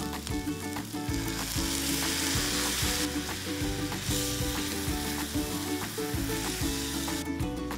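Diced onion and canned tomatoes sizzling in a small cast iron skillet as a spatula stirs them. The sizzling stops abruptly near the end, and background music with a steady beat runs underneath.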